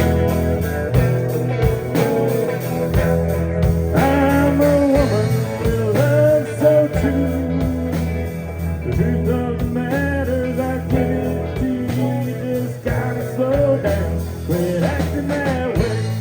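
Live band playing a honky-tonk country-rock song: a bending lead melody over a steady bass line and drum beat, with no lyrics sung.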